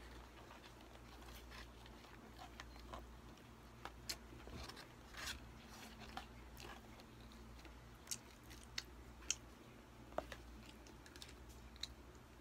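Close eating sounds of fried chicken and rice: a plastic spoon and fork clicking and scraping in paper food boxes, chicken being torn, and chewing with a little crunch. These come as scattered sharp clicks and short crackles over a faint low hum.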